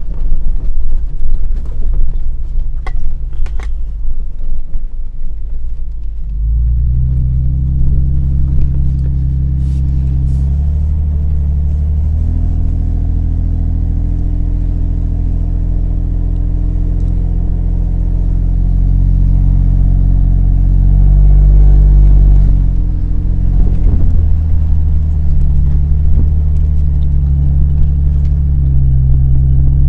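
Engine of the vehicle being driven across soft desert sand, heard from inside the cab. For the first few seconds gusty wind buffets the microphone. About six seconds in the engine grows louder and settles into a steady drone under load, its pitch shifting up and down a few times as the engine speed changes.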